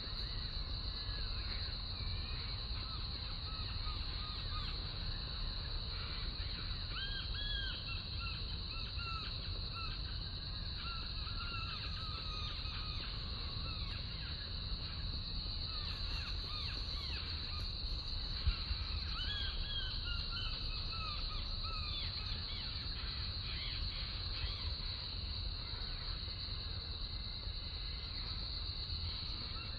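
Small birds chirping and calling in short arched notes, repeatedly, over a steady high-pitched drone and a low rumble of outdoor background. A single sharp tap stands out about two-thirds of the way through.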